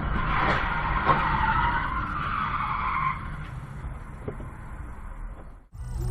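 Car tyres skidding on the road for about three seconds, then dying away into engine and road rumble.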